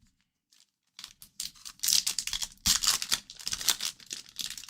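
A hockey card pack's wrapper being torn open and crinkled, starting about a second in with dense, rapid crackling.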